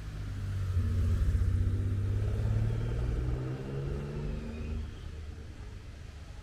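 A motor vehicle's engine passing close by. It swells to its loudest about a second in, then drops slightly in pitch and fades over the next few seconds.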